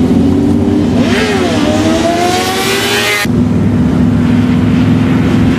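Motorcycle engines running loudly, with one revving and climbing in pitch for about two seconds, cutting off abruptly partway through as the steady engine sound carries on.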